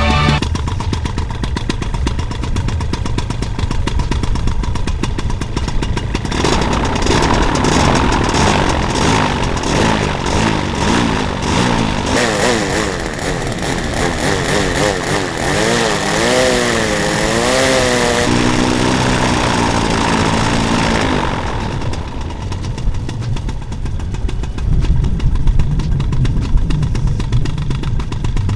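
Paramotor engine running, busier from about a quarter of the way in until about three quarters through, its pitch wavering up and down near the middle, over a steady low rumble.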